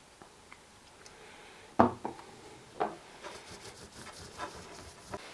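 Objects handled on a workbench: two sharp knocks about two and three seconds in, like items being set down on wood, then light ticks and faint rubbing.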